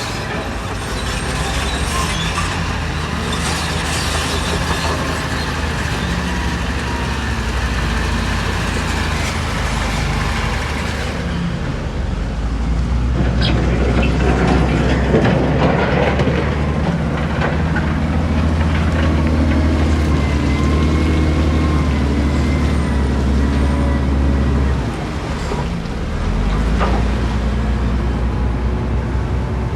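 Heavy diesel construction machinery running steadily under load, with a few sharp metallic clanks from the work.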